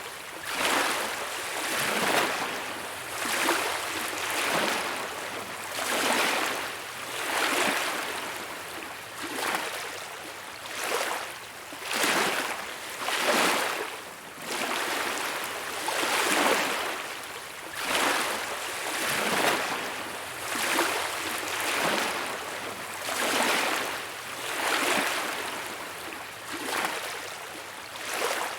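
Small waves lapping on a beach, each washing in with a rushing hiss and pulling back, a surge roughly every second and a half.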